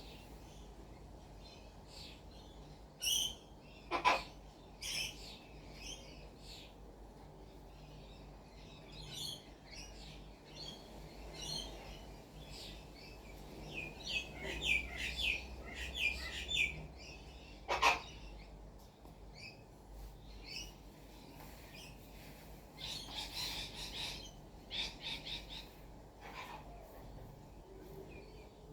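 Wild birds chirping and calling in many short high notes, with quick runs of repeated notes around the middle and again near the end. Two loud sharp cracks stand out, about four seconds in and again about eighteen seconds in.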